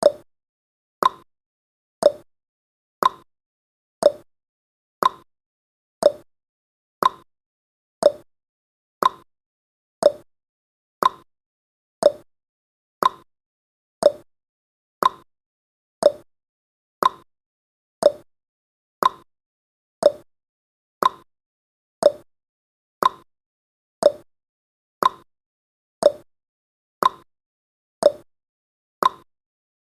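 Clock tick-tock sound effect: one short tick every second, alternating between a lower and a higher tone, each dying away quickly.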